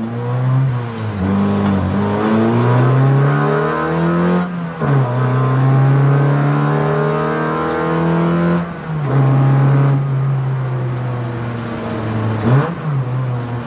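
Honda L15 1.5-litre four-cylinder engine, swapped into a stripped-out Honda Brio, heard from inside the bare cabin as the car is driven hard. The revs climb and drop sharply at gear changes about five and nine seconds in, then ease off. Near the end there is a quick rev blip on a downshift.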